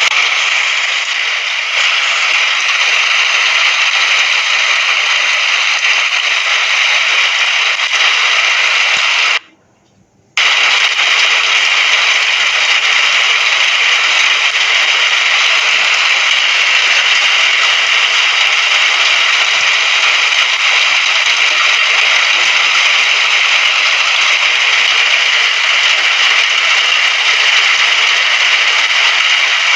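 Steady rainfall, an even hiss with no thunder, that cuts out abruptly for under a second about ten seconds in before resuming.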